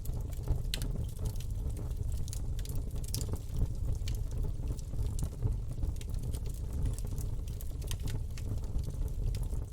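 Campfire burning: a steady low rumble of flames with frequent sharp crackles and pops scattered through it.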